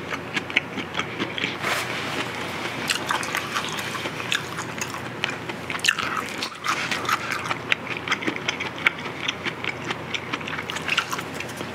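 Close-miked chewing of marinated pork ribs: a steady stream of small, wet mouth clicks and smacks.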